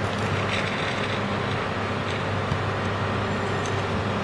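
Sm4 electric commuter train arriving at a station platform: a steady rumble with a low hum and faint clicks.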